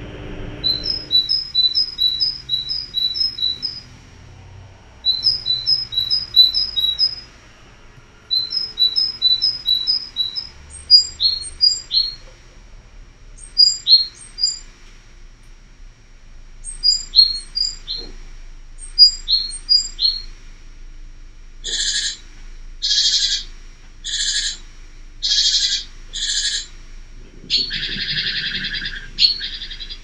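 Great tit calls: quick high chirps in bursts of several notes, then single down-slurred notes. From about two-thirds of the way in come five harsher calls about a second apart, then a noisy rustling flutter near the end.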